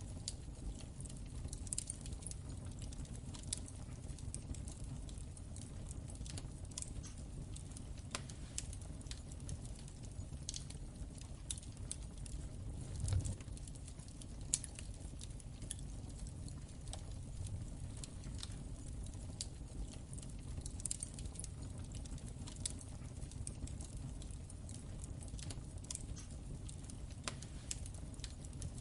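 Wood fire crackling in a fireplace: irregular small pops and snaps over a steady low rumble, with a couple of louder pops about halfway through.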